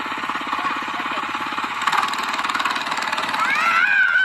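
Small motorcycle engine running with a fast, even pulsing rattle. A high wavering cry comes in near the end.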